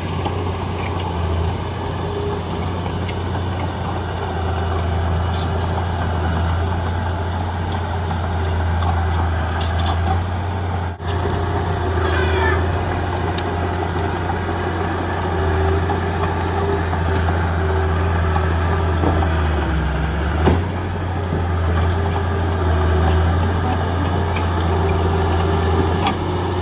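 Heavy diesel engine of earth-moving machinery running steadily with a deep hum, with occasional short high-pitched squeals of metal.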